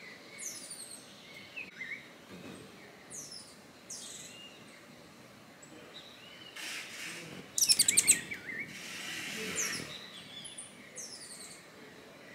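Birds calling: scattered short, high chirps that slide downward, with a loud, rapid run of high notes about eight seconds in.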